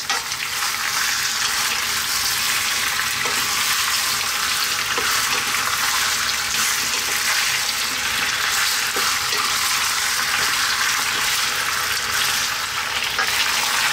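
Chicken pieces, bone in and skin on, and potato cubes sizzling steadily in hot sunflower oil in a pan over above-medium heat. A wooden spoon stirs and turns them, with a few light knocks against the pan.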